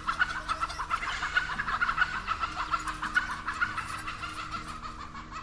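Chickens squawking and clucking in alarm, a fast, dense run of calls that tapers off toward the end, typical of a rooster fleeing in panic.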